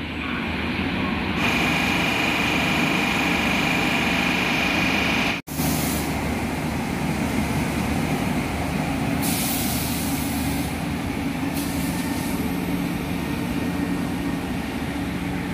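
Diesel passenger train pulling away from a station, its engines running with a steady low hum and a steady high whine over the first few seconds. The sound drops out for an instant about five seconds in.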